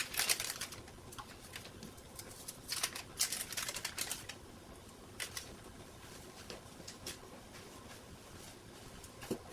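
Kitchen utensils clicking and scraping against a pan or dish in a few quick runs, with scattered single clicks, as butter goes into the sauce.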